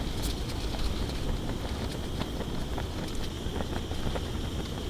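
Strong wind buffeting the microphone: a steady low rumble, with a thin steady high hiss and faint scattered clicks.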